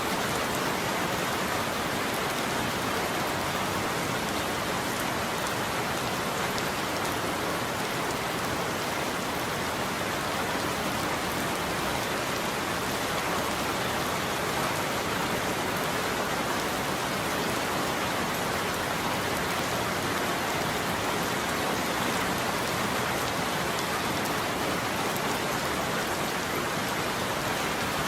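Heavy rain falling steadily on a surface, an even continuous hiss with no thunder.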